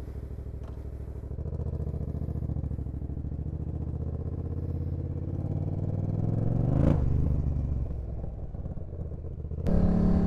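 Yamaha MT-07's parallel-twin engine running just after starting, with an even pulsing idle. About seven seconds in it is revved once, rising and falling back. Near the end the engine sound suddenly becomes louder and changes tone.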